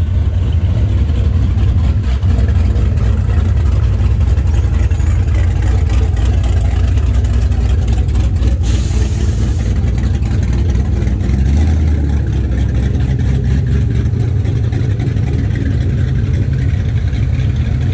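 Car engines rumbling low and steady as cars roll slowly past, with a brief hiss about nine seconds in.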